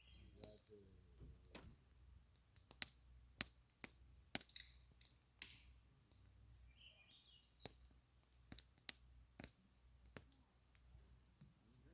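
Campfire crackling: wood snapping and popping in a fire in irregular sharp clicks, a few much louder than the rest, over a low steady hum.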